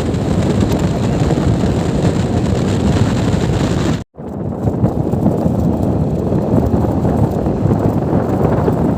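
Wind buffeting the microphone over the steady noise of a moving vehicle. The sound drops out abruptly for a moment about four seconds in.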